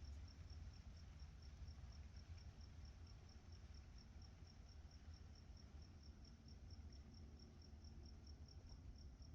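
A cricket chirping steadily, a high-pitched chirp repeated about four to five times a second, over a faint low rumble.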